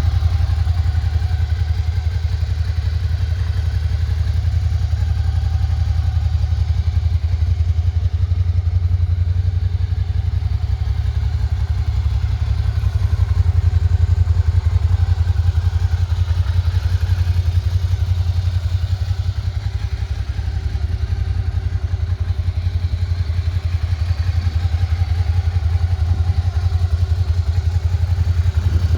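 2013 Suzuki Gladius 650's 645 cc V-twin engine idling steadily, a low, even pulsing exhaust note.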